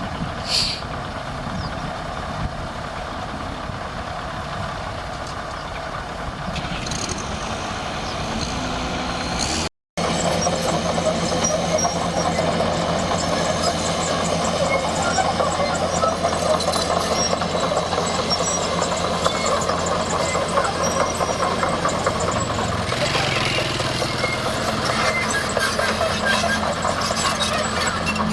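Heavy diesel engine of earth-moving machinery running steadily. The sound cuts out briefly about ten seconds in and is louder after that.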